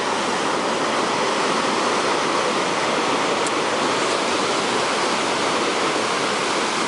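Ocean surf rushing among shore rocks: a steady, unbroken hiss of churning water with no separate wave crashes.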